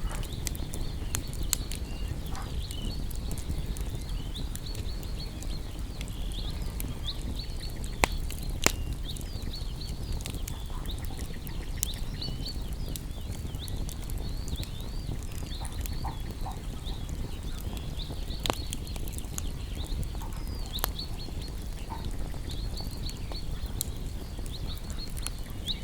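Campfire of burning wood crackling, with sharp pops now and then over a steady low rumble. High, short chirping sounds run throughout.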